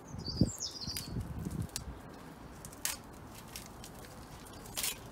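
Low knocks and rustling from bird food containers being handled, loudest about half a second in. A short, jagged, high bird chirp sounds in the first second. Two sharp clicks follow later.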